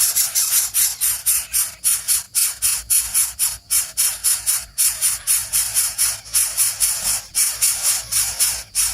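Insect chorus: a loud, high-pitched rapid pulsing buzz, about five pulses a second.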